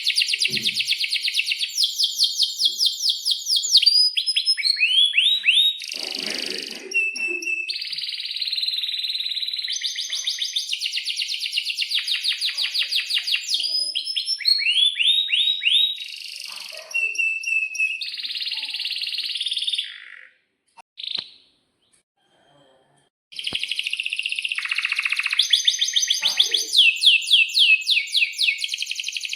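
Domestic canary singing a long song of fast rolling trills and quick rising chirps. The song breaks off briefly about two-thirds of the way through, then resumes.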